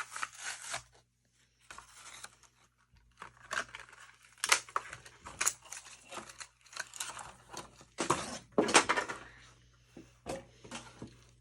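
Cardboard tearing and plastic crinkling as a Hot Wheels blister package is pulled open by hand, in irregular rasping bursts with short pauses.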